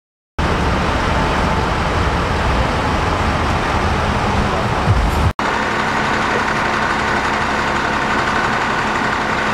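Fire trucks' engines running steadily. About five seconds in the sound cuts, then carries on with less low rumble and a steady higher hum.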